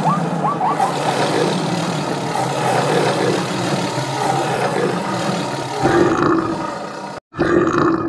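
Tiger roaring and growling, a long rough sound. About six seconds in it gives way to a cow mooing, which cuts off abruptly and then moos once more.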